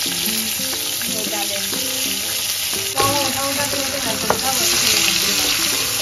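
Sliced onions and green chillies frying in hot oil in a metal kadai, sizzling steadily as they are stirred with a wooden spatula. The sizzle surges about three seconds in, and there is a light knock a little after four seconds.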